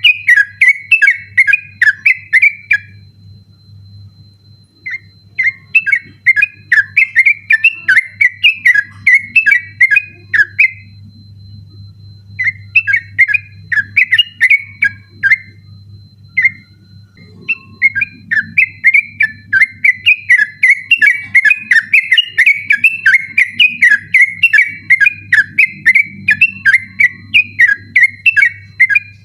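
Yellow-vented bulbul (trucukan) singing a rapid, continuous 'ropel' song of quick, bubbly whistled notes in long runs. It breaks off for a second or two three times, then resumes.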